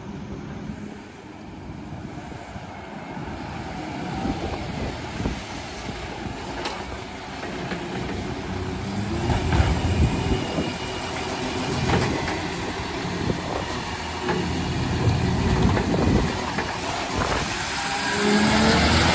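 Garbage truck engine running and drawing closer, growing steadily louder, with a heavy low rumble and a few knocks, under wind on the microphone.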